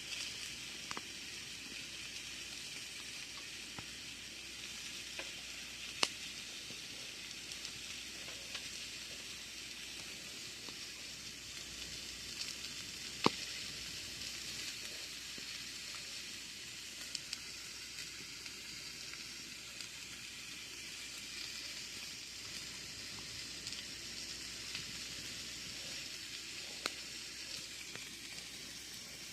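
Campfire burning: a steady hiss of flames with scattered small crackles, and two sharp pops, one about six seconds in and a louder one about thirteen seconds in.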